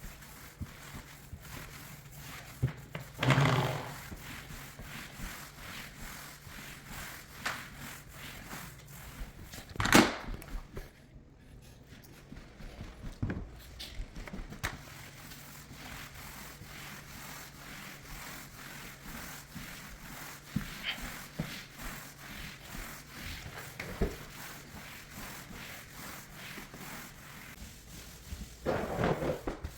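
Finish applicator rubbing across a hardwood floor as the first coat of polyurethane is spread, with scattered short knocks and a steady low hum underneath.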